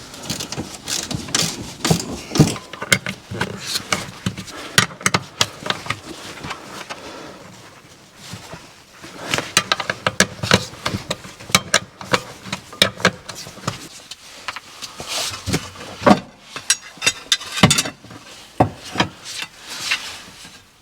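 Irregular clicks, knocks and light rattles of hands and hand tools working on parts under a car, with a quieter stretch about a third of the way in.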